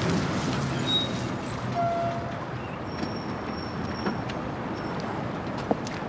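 Citroën Traction Avant 15 Six's straight-six engine running as the car drives up and draws near. Its low hum eases after about two seconds.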